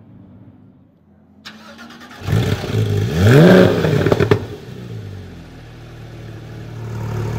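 Porsche 991 GT3 flat-six with a Cup exhaust starting up: a brief whir of the starter, then the engine catches about two seconds in and flares up in revs, falls back with a few sharp cracks, and settles to a steady idle.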